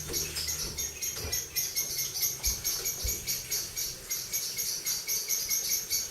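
Steady, rapid high-pitched chirping in an even rhythm of about six pulses a second, continuing without a break.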